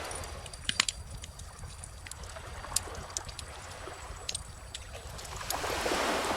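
Bonfire crackling with frequent sharp pops over calm ocean waves washing ashore; one wave swells in and breaks near the end.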